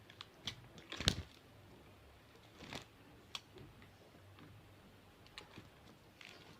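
Budgie moving about its cage and pecking: faint scattered clicks and crunches, with a louder knock about a second in and another near three seconds.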